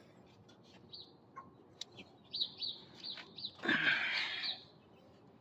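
Small birds chirping in a quick series of short, downward-sliding notes, with a louder chirping burst about two thirds of the way in, over a few light metallic clicks.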